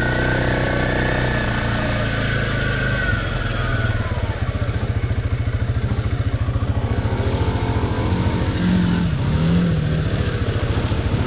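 Off-road vehicle engine running steadily, then dropping to a slower, chugging pace about four seconds in.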